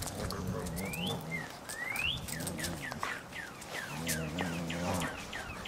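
A songbird singing: two rising whistles, then a quick run of short falling chirps at about three a second.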